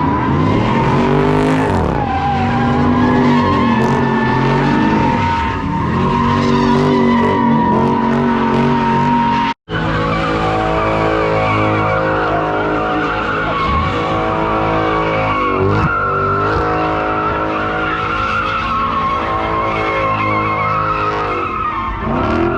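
Car doing a burnout: engine held at high revs while the tires squeal steadily. The sound drops out abruptly for an instant about ten seconds in, then the squealing carries on.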